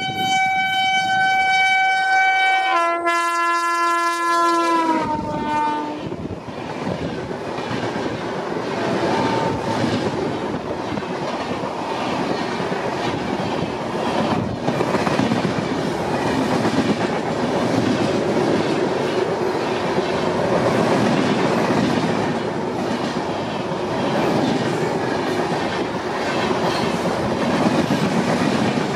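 WAP-7 electric locomotive sounding its horn twice, the second chord dropping in pitch as the locomotive passes about five seconds in. This is followed by the loud rushing and clickety-clack of the express coaches going by at speed close by.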